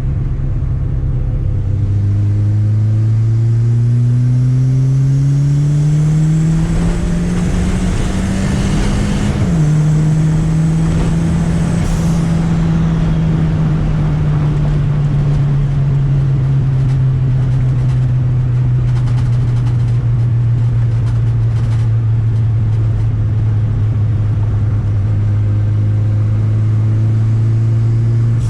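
Car engine pulling up through the revs, with a sudden drop in pitch about nine seconds in like a gear change. The revs then ease slowly down as the car runs on steadily.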